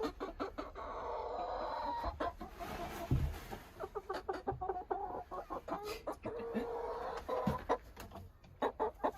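A backyard flock of Plymouth Rock and Rhode Island Red chickens clucking, with drawn-out calls twice, among scattered clicks and a low thump about three seconds in.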